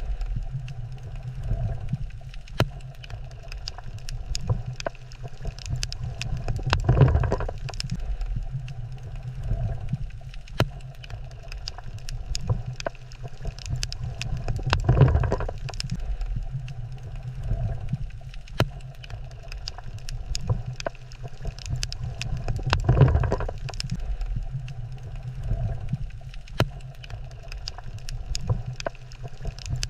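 Underwater coral-reef ambience: a steady low rumble that swells about every eight seconds, with scattered sharp clicks.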